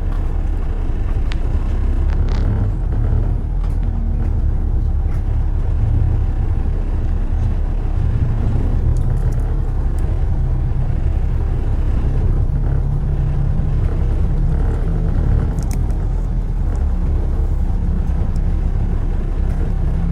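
Steady low rumble of city road traffic, with a few faint brief clicks.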